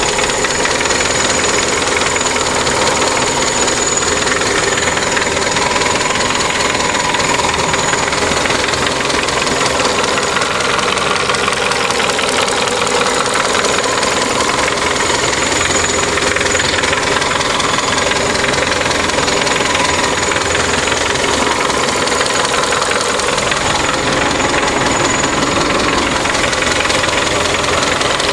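Opel Omega B's X20XE 2.0-litre 16-valve four-cylinder engine running steadily with a rapid knocking clatter. The owner cannot explain the noise and finds it alarming.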